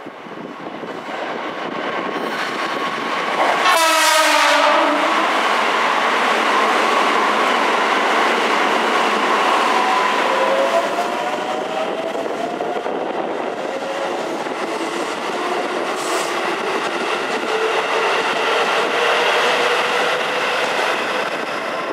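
Keisei 3700-series electric train pulling away from the station. It gives a short horn blast about four seconds in, then its motors whine, rising in pitch as it gathers speed, over steady wheel-on-rail noise.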